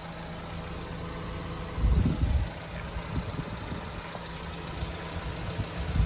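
A car engine idling steadily with a low hum. About two seconds in, a short low rumble of wind buffets the microphone.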